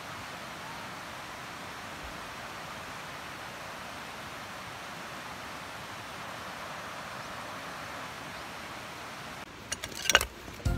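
Steady rushing of a river's flowing water, then a few sharp clicks and knocks near the end.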